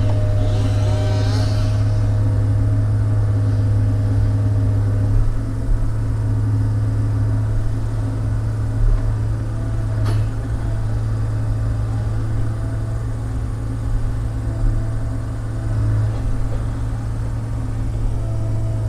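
Diesel engine of a log loader running steadily under load while it handles logs, with a single sharp knock about ten seconds in.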